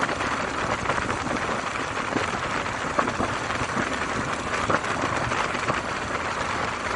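Steady rush of wind and road noise from a moving motorcycle, with the engine low underneath and a few faint clicks.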